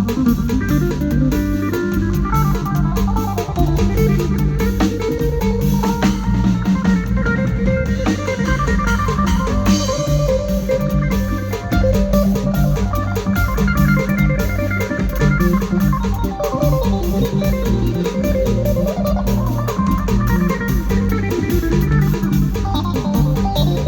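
A band playing an instrumental piece: a guitar melody over a steady bass line and drum kit, with an organ-like keyboard.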